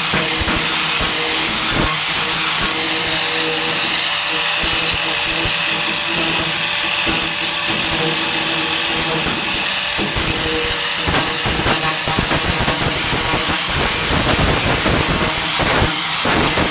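A 4.5-inch angle grinder running steadily under load with a loud hissing grind, grinding body filler and metal off a truck bed's wheel arch to expose the rust beneath.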